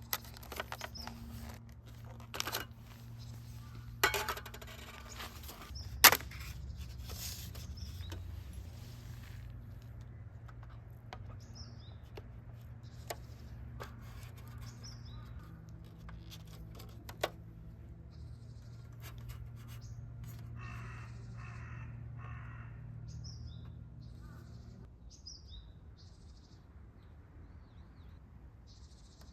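A few sharp knocks and clicks of camp gear being handled, the loudest about six seconds in, over a low steady hum that stops near the end. Small birds chirp now and then through the second half.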